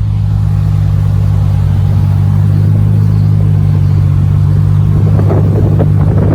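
Car engine running at a steady speed, a constant low drone with no change in pitch.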